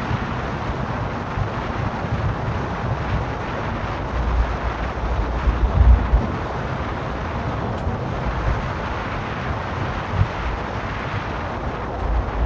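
Car driving along a town road: steady road and engine noise with wind buffeting the microphone, the low rumble swelling about five to six seconds in.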